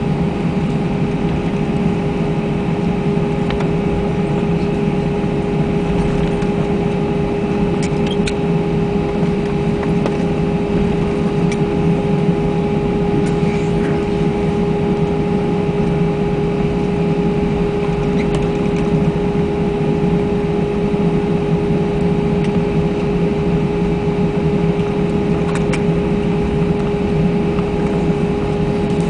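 Steady cabin noise inside an Airbus A320 taxiing after landing: the engines at idle give a constant hum with a steady mid-pitched tone over a low rumble. A few faint clicks sound now and then.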